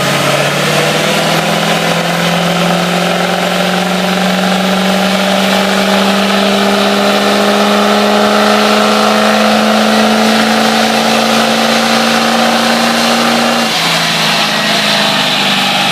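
A truck's engine held at high revs, its pitch climbing slowly and steadily, then falling back sharply near the end as the throttle is let off.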